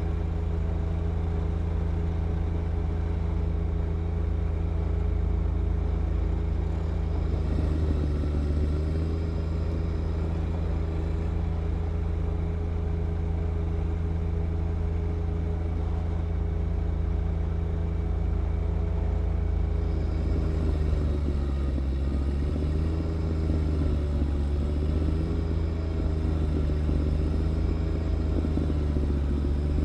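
John Deere 1025R compact tractor's three-cylinder diesel engine running steadily at high speed while snow blowing. Its pitch dips briefly about eight seconds in and wavers up and down several times near the end.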